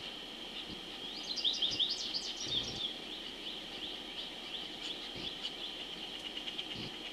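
Outdoor bird and insect sounds: a quick run of high, rapid chirping notes about a second in, lasting under two seconds, then scattered single chirps. Under it all runs a steady high insect drone.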